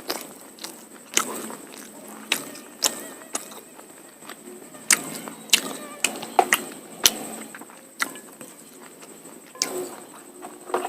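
Close-miked eating sounds: a person chewing a mouthful of polao rice and mutton curry, with irregular wet smacks and clicks of the lips and mouth, about one or two a second.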